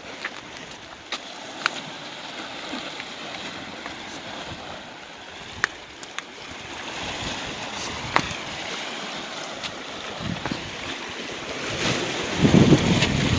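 Ocean waves washing against a rocky shore, with wind on the microphone. Scattered small sharp clicks run through it, and a louder surge with heavy low rumble comes near the end.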